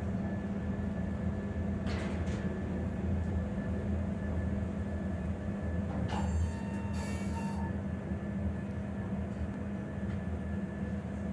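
Steady low hum of a hydraulic elevator's pump motor running during a ride, with a brief high squeal about six seconds in.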